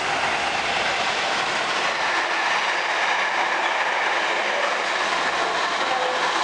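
Class 66 diesel freight train passing through at speed without stopping: a steady, loud rush of wheels on rails that swells up just before and holds.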